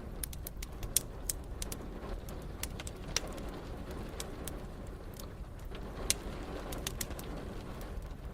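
Wood fire crackling in a fireplace: scattered sharp pops, the loudest about one, three and six seconds in, over a steady low rumble.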